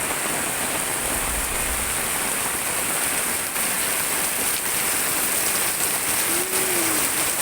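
Very heavy rain pouring down in a steady, dense hiss, coming down as if poured out.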